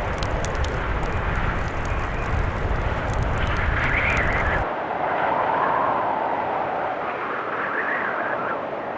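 Blizzard wind gusting in slow swells, with a wood fire crackling over a low rumble. About halfway through, the crackling and rumble cut off abruptly, leaving only the wind.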